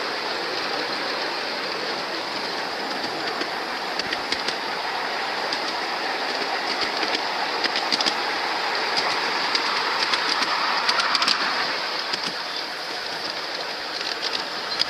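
Train rolling along its track, heard from on board: a steady rumble and hiss of wheels on rail with scattered sharp clicks in small clusters, heaviest near the end.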